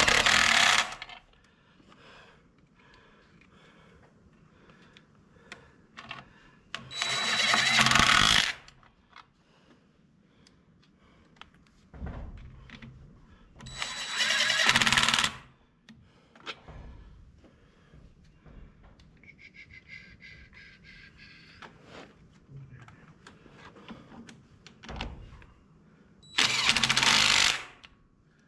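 A handheld power driver run in four short bursts several seconds apart, driving in the screws of a Ford 8N tractor's oil pan, with small clicks and clinks of hand work between the bursts.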